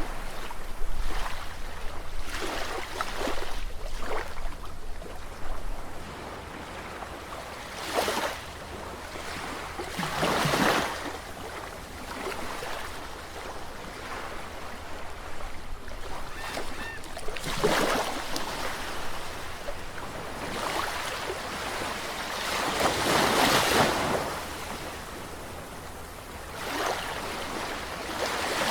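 Sea waves breaking and washing in, a swell of rushing noise every few seconds that rises and falls away; the largest comes about two-thirds of the way through.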